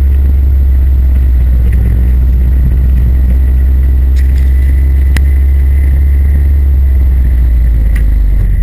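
Competition car's engine running hard through a slalom run, heard from inside the cabin as a loud, steady low rumble. One sharp knock about five seconds in.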